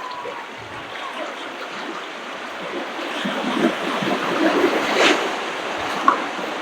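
Ocean waves washing onto a beach, swelling louder a few seconds in with a splash near the peak. A brief whistle-like glide rises and falls at the very start.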